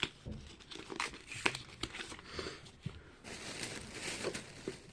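Plastic packaging being handled and opened by hand: scattered clicks and short rustles, with a longer stretch of crinkling about three seconds in.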